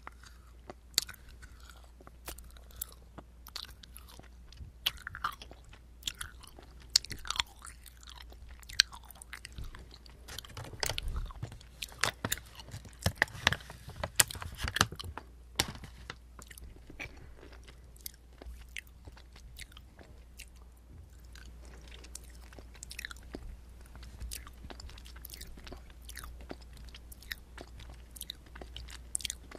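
Close-miked chewing of Brookside dark-chocolate-covered açaí & blueberry pieces: a steady run of wet mouth clicks and chewing sounds, busiest around the middle.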